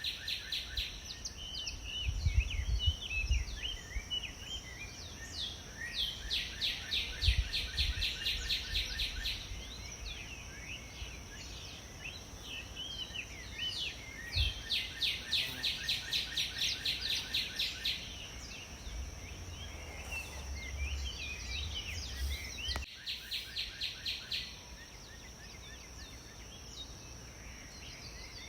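Songbirds singing outdoors, with fast trills of rapidly repeated notes lasting a few seconds each, over a steady high-pitched insect drone. Occasional low wind rumble on the microphone.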